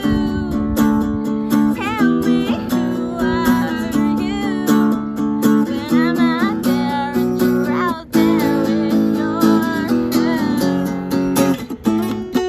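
Acoustic guitars playing a song live, strummed chords changing in a steady rhythm under a melody that bends in pitch. The music drops out for a moment about eight seconds in, then carries on.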